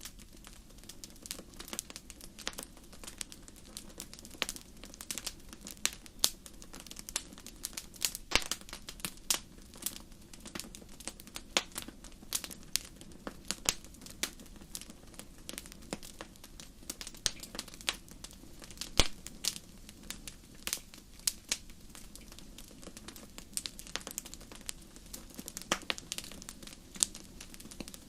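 Wood fire in a fireplace crackling: frequent irregular sharp pops and snaps over a steady low hiss of burning.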